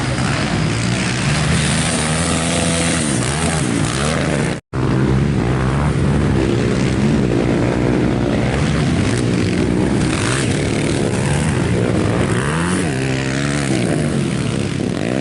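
Several racing motorcycle engines running on a circuit, their pitch rising and falling as riders accelerate and shift, with a brief dropout about four and a half seconds in.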